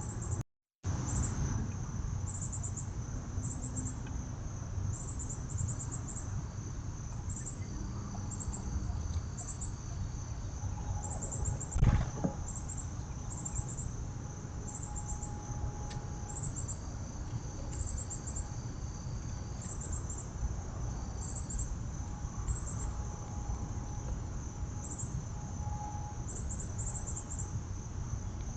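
Crickets or other insects chirping outdoors in short, high-pitched pulses that come in clusters, over a steady low rumble of background noise. A single sharp knock sounds about twelve seconds in, and the sound drops out completely for half a second near the start.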